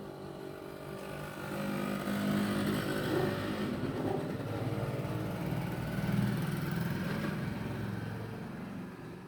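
A motor vehicle's engine passing by, growing louder through the middle and fading near the end.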